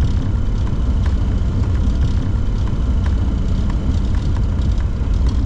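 Steady low rumble in the cockpit of a Bombardier Challenger 604 rolling off the runway after landing, its turbofan engines at idle.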